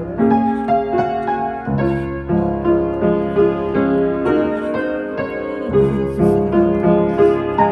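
Instrumental piano music: a gentle melody of sustained notes over a bass line.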